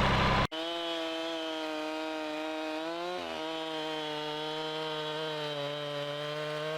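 Sawmill's small gasoline engine running at a steady speed through a cut, then slowing with a falling pitch near the end. A louder, noisier sound cuts off abruptly about half a second in.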